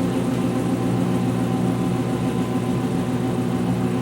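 2006 GE Profile Harmony top-loading washer spinning, its motor and spinning tub giving a steady hum of several even tones. It is the spin between wash and rinse, which is not as fast as the final spin.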